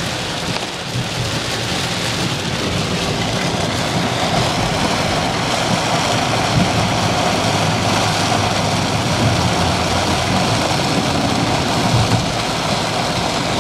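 Heavy downpour of rain drumming steadily and loudly on a car, over a low steady hum from the vehicle on the wet road.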